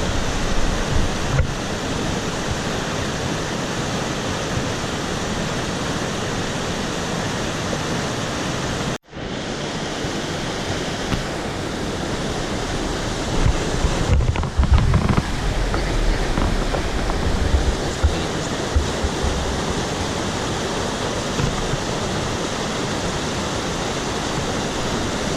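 Steady rush of a fast, monsoon-flooded mountain stream. Gusts of wind buffet the microphone in the middle stretch, and the sound cuts out for an instant about a third of the way through.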